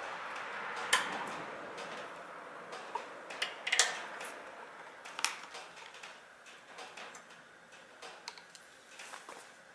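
Scattered light clicks and taps, the sharpest about a second in and a cluster near four seconds, over a faint hiss that fades out in the first two seconds.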